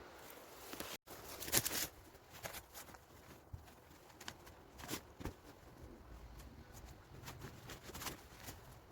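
Faint irregular knocks and rustles, a second or more apart, after a sudden cut about a second in.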